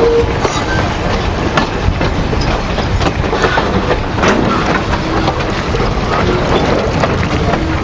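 Railroad cars rolling along close by: a steady rumble of steel wheels on the rails with irregular clicking over the rail joints.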